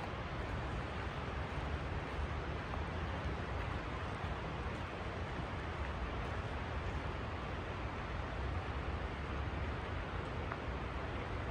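Steady rush of fast-flowing creek water: an even hiss with a low rumble underneath, unbroken throughout.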